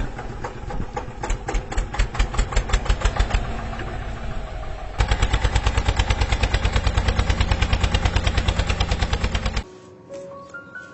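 A small engine-like machine running with rapid, even knocking, about eight beats a second. About halfway in it turns louder and steadier, then cuts off near the end.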